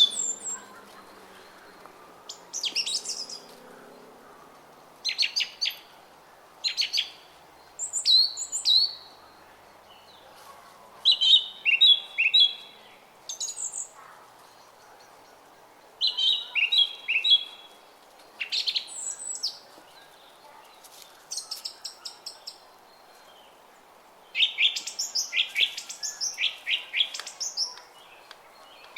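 Small songbirds singing and chirping in short phrases every second or two, some quick trills and rapid repeated notes, over the steady murmur of a flowing brook.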